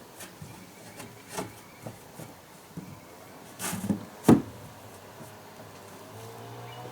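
Scattered wooden knocks and scrapes as timber is handled, a few light taps early on and a loud knock a little after four seconds in.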